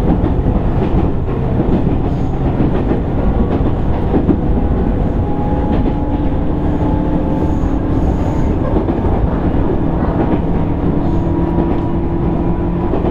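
Inside a JR East 205 series 600 subseries electric motor car under way: a steady rumble of wheels on rail with a faint hum of motor and gears in a few held tones, and occasional clicks over rail joints.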